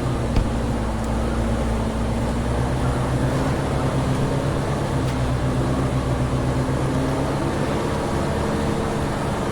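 Timber truck's diesel engine running steadily, a low even drone, with one short click about half a second in.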